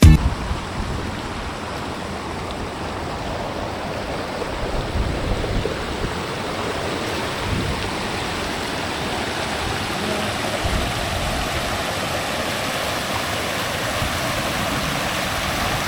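Water running steadily over rocks in a creek or waterfall, a continuous even rush.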